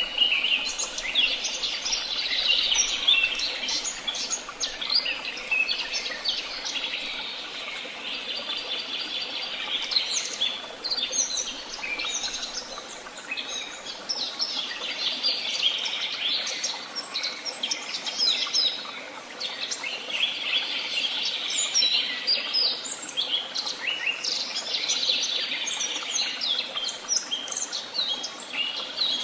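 Several woodland songbirds singing and calling at once, a dense chorus of overlapping high chirps, trills and whistled notes that thins out briefly about halfway through before building again.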